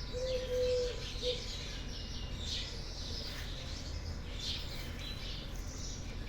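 Small birds chirping and twittering in repeated short bursts, with a low, steady coo lasting about a second at the start and a brief second coo just after.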